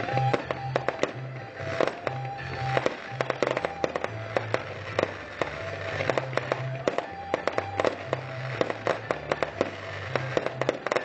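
Fireworks bursting and crackling in quick succession, many sharp cracks throughout, over music with a steady, stepping bass line.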